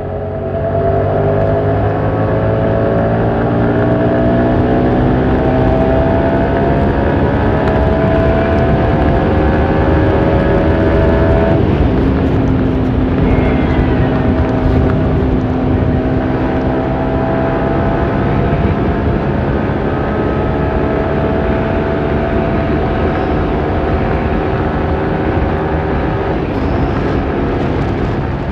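Motorcycle engine under way, its pitch climbing steadily as it accelerates, then dropping abruptly about twelve seconds in at an upshift and climbing again, with another small drop near the end.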